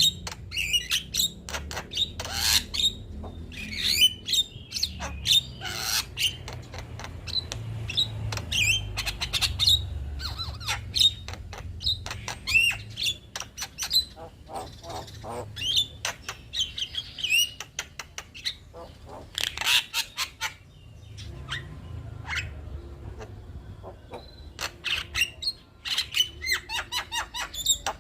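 Male Javan myna (jalak kebo) singing a long, varied stream of squawks, rapid clicking runs and whistled notes, thinning out for a few seconds past the middle before picking up again. A low hum runs underneath.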